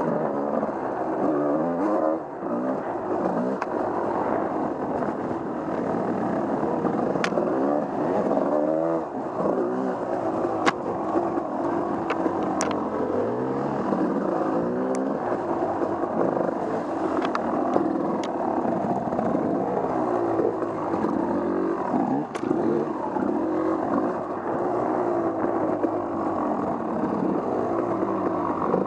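Off-road vehicle engine running under constantly changing throttle, its pitch rising and falling again and again, with a few sharp clicks scattered through.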